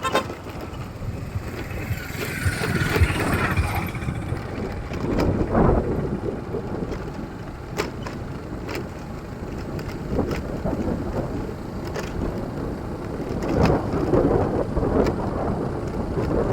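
Road noise from a moving vehicle, with wind rumbling and buffeting on the microphone, rising and falling in gusts.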